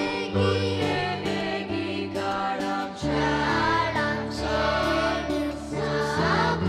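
A group of voices singing a Christmas carol over instrumental accompaniment with a steady beat.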